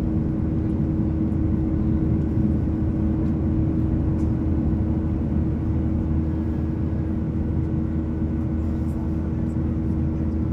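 Steady cabin drone of a Boeing 737-800 in flight: its CFM56-7B engines and airflow making a constant rushing noise with a steady low hum and a held tone.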